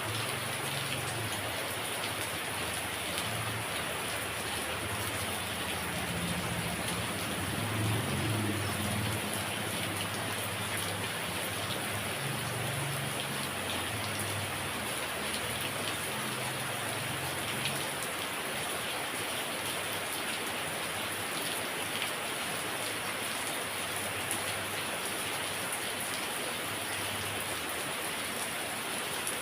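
Heavy rain falling steadily in a dense, even hiss of drops on surfaces. A low rumble sits under it for the first half, loudest about eight seconds in.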